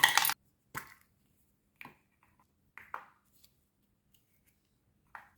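A short loud rustling burst at the very start, then a few faint sharp clicks or taps spaced about a second apart, with near silence between them.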